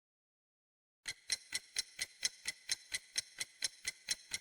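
Clock-ticking sound effect, used as a quiz countdown timer: it starts about a second in and ticks steadily about four times a second.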